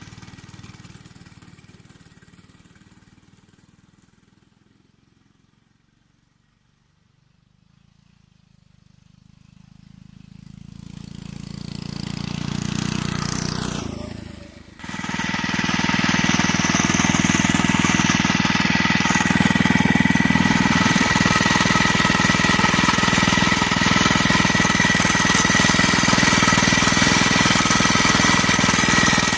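86cc four-stroke single-cylinder minibike engine running: it fades away to near silence and grows back over the first dozen seconds, breaks off briefly about fifteen seconds in, then runs loud and steady at an even pitch.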